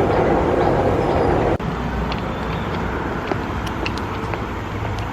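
Outdoor city traffic noise, a dense rush that cuts off abruptly about a second and a half in, followed by a steadier, quieter background hum with faint scattered clicks.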